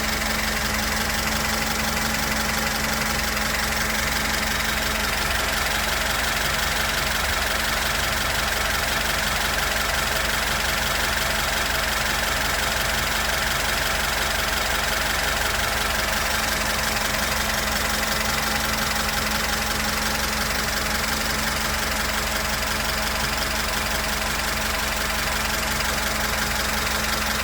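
Freshly rebuilt VAZ-2102 inline-four engine running steadily at idle just after its first start, its valves newly adjusted and not yet run in.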